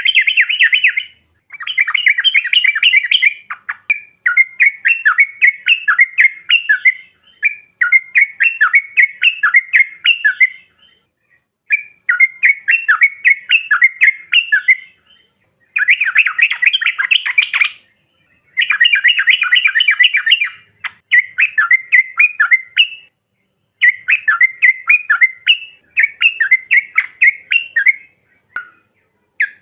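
Yellow-vented bulbul (trucukan) song as a lure recording: bouts of rapid, bubbling chattering, each two to three seconds long, repeated about ten times with short pauses between.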